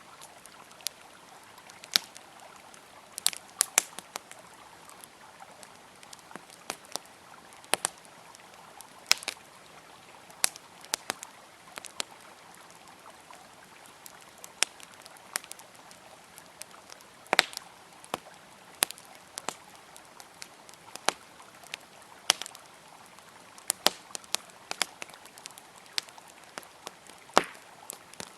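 Wood fire crackling, with irregular sharp pops of varying loudness, over a steady rush of flowing river water.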